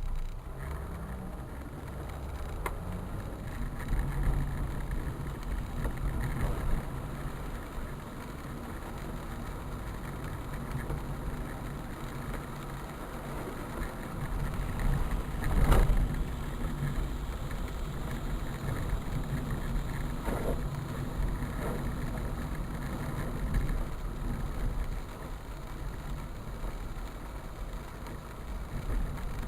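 A vehicle engine running, with a steady low hum and rumble, and one sharp knock about halfway through.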